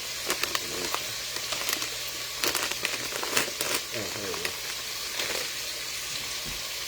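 Food sizzling in a hot pan: a steady frying hiss, with scattered clicks and knocks of utensils and cookware.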